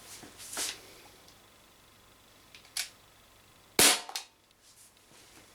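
Umarex XBG CO2 BB pistol firing a lead BB: one sharp shot about four seconds in, with fainter clicks before it.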